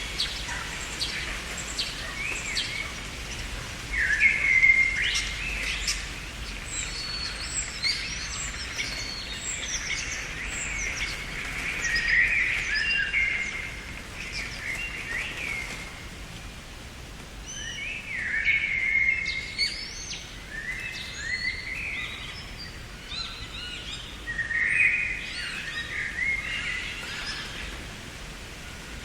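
Several songbirds singing and chirping in overlapping phrases, busier in a few bursts, over a steady background hiss.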